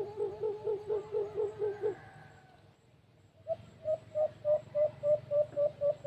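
A dove cooing: a long run of evenly spaced hooting notes, about three to four a second, breaks off about two seconds in. After a short pause a second, slightly higher-pitched run of the same notes starts.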